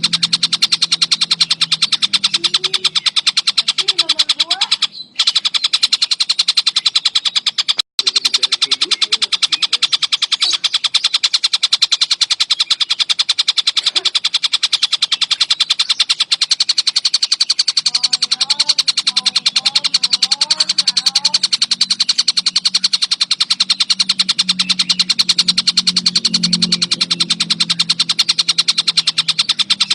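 Tengkek buto bird calling in a rapid, unbroken high-pitched trill. The trill cuts out briefly about five seconds in and again near eight seconds. A faint low hum runs beneath it.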